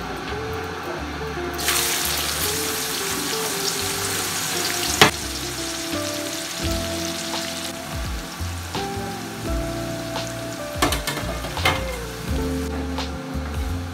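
Chopped red onion and green chillies sizzling as they fry in hot oil in a wok; the sizzle starts suddenly about two seconds in and runs on, with a few sharp clicks.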